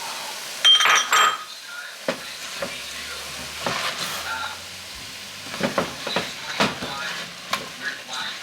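Chopped onion, bell pepper, jalapeño and garlic sizzling in a pot while a spoon stirs and scrapes through them. There are two loud metallic clinks about a second in, then scattered knocks of the spoon against the pot.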